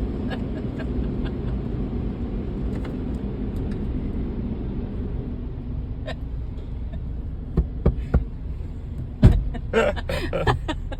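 Steady low rumble of automatic car wash machinery heard from inside the car, with a few sharp knocks late on, the loudest about nine seconds in.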